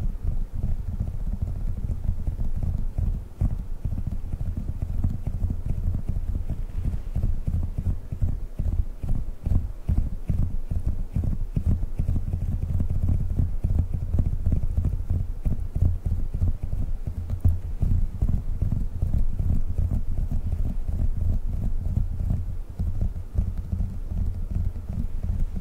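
Fingertips tapping fast and without pause on Globbles, small squishy sticky gel toy balls. Each tap is a soft, low, dull thud.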